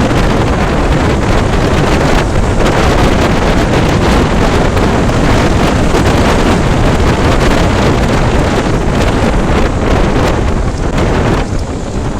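Loud wind buffeting the microphone of a moving motorcycle: a dense, steady rush that eases slightly near the end.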